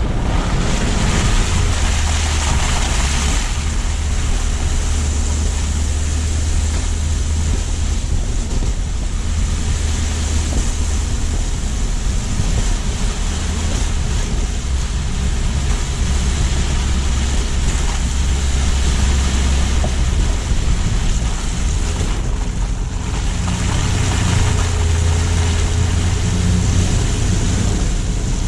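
Car driving on city streets: steady low engine and road rumble with tyre and wind hiss that swells and eases a little as speed changes.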